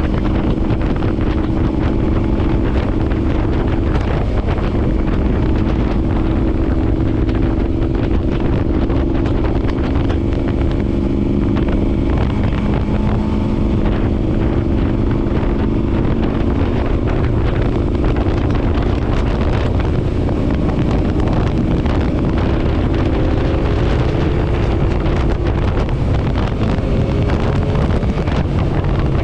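Motorcycle engine running steadily at road speed, with heavy wind buffeting on the microphone. The engine note shifts and rises a little in the last several seconds.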